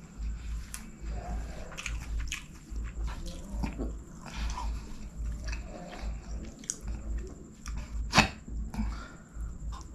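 Close-miked chewing and wet mouth smacks of a person eating fried rice by hand, with a steady rhythm of low thuds and scattered clicks. One sharp click about eight seconds in is the loudest.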